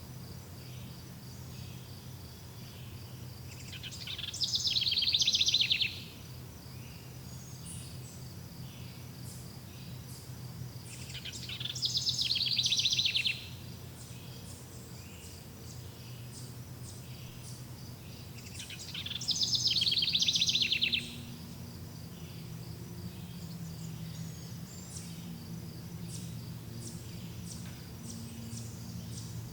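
Outdoor nature soundscape of birds and insects. A loud, rapid, buzzy trill of about two seconds swells and then cuts off abruptly, repeating about every seven to eight seconds. Underneath are faint scattered chirps and a steady high insect drone.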